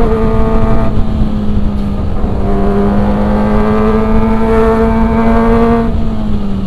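Kawasaki ZX-25R's 250 cc inline-four engine running under way at moderate revs, its note climbing slowly, with a short dip about a second in and a drop in pitch about six seconds in. A low rush of wind and road noise sits underneath.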